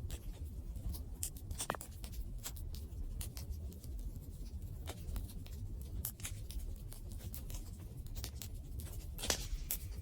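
Wood fire crackling: irregular sharp snaps and pops over a low steady rumble, with one louder pop near the end.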